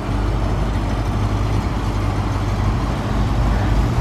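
1976 Cadillac Sedan DeVille's 500 cubic-inch V8 running as the car rolls slowly toward the listener, a steady low rumble that grows a little louder. Its exhaust has had a piece chopped off, which makes it loud.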